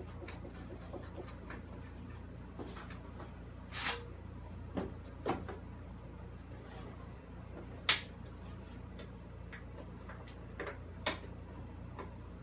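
Light clicks and a few sharp knocks of hand tools and metal parts being handled during reassembly of a mower's side panel, the loudest knock a little past halfway. A steady low hum runs underneath.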